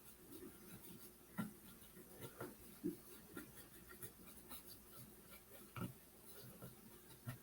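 Near silence: faint room tone with a few soft, scattered taps and scrapes, the clearest about a second and a half in and near three seconds in.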